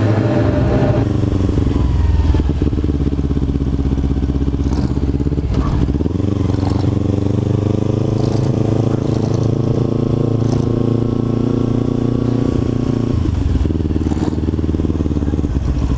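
Kawasaki Ninja 300 parallel-twin engine running as the bike is ridden, its pitch rising gradually under throttle from about six seconds in until a change near the end.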